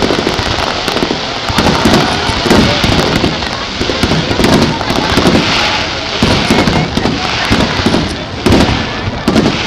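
Aerial firework shells bursting in quick succession, their bangs and crackle overlapping into a continuous barrage.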